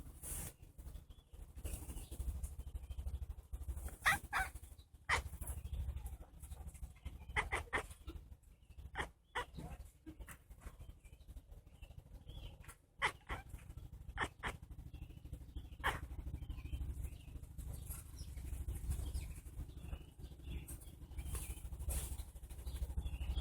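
Domestic cat chattering at birds: short, pitched chirping calls in scattered bursts, over a steady low rumble.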